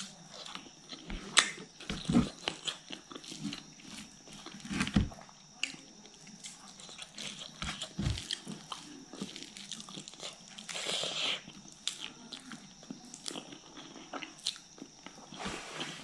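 Close-up wet chewing and mouth clicks from a mouthful of rice and fish curry, with a few soft thuds early on, then the sound of fingers working rice and curry together on the plate.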